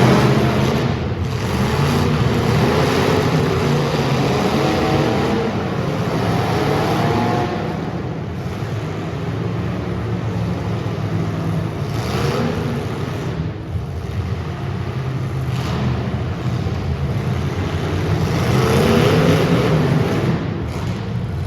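Super stock race car engines running hard on track, the engine note rising several times as the cars accelerate.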